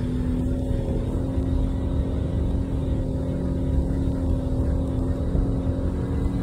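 Jeep engine running steadily as it climbs a dirt trail, a constant drone over a low rumble.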